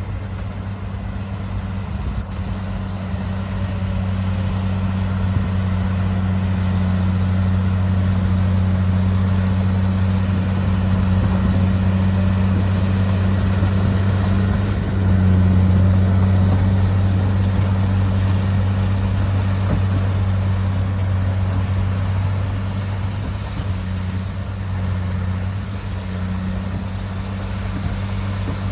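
Komatsu crawler bulldozer's diesel engine running with a deep, steady drone, growing louder over the first few seconds.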